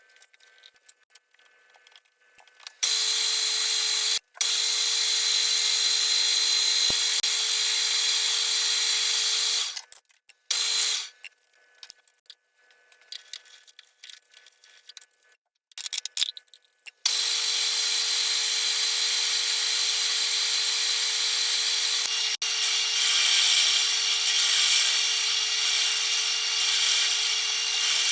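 Manual milling machine cutting metal on a gearbox housing: a steady machining noise with a constant whine, starting about three seconds in, stopping for several seconds around the middle and running again from about two thirds of the way through.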